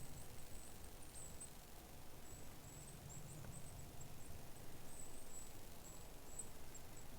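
Faint forest ambience: a low steady rumble under a run of very high, thin bird chirps.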